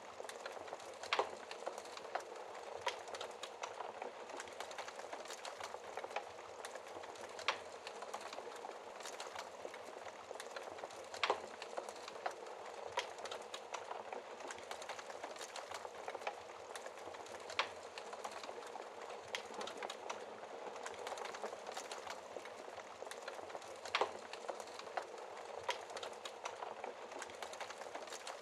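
Wood fire crackling steadily in a fireplace, with a dense patter of small crackles and a few louder sharp pops spread through.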